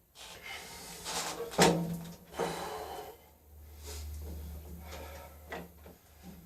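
Yamaha XT600 single-cylinder being kick-started for its first start after a rebuild: mechanical clunks of the kickstart, with a sharp loud knock about one and a half seconds in and a low rumble for a couple of seconds in the middle.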